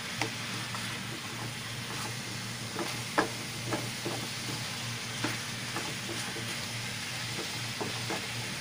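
Diced squash sautéing in a frying pan with a steady sizzle, while a wooden spatula stirs it, scraping and knocking against the pan now and then.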